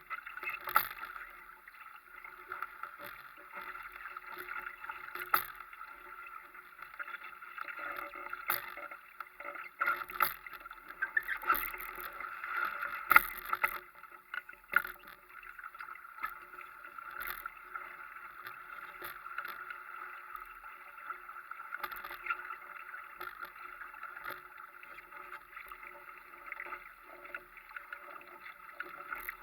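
Water rushing and slapping along a Europe-class sailing dinghy's hull under way, with scattered knocks and splashes.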